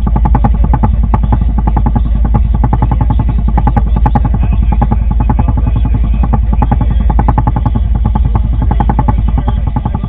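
An engine running steadily, with a rapid, even pulse.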